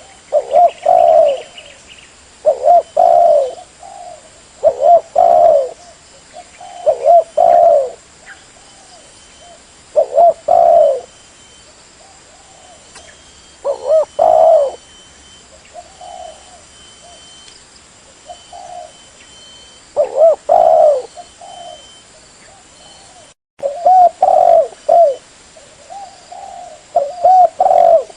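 Spotted dove (tekukur) cooing: repeated low, rolling coo phrases every one to three seconds, softer for a stretch in the middle. There is a brief break in the sound a little after twenty-three seconds.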